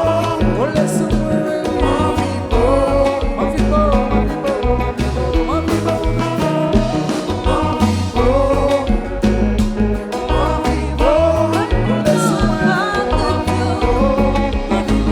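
Live Haitian kompa band music: a singer's melody carried over guitar, bass and a steady dance beat.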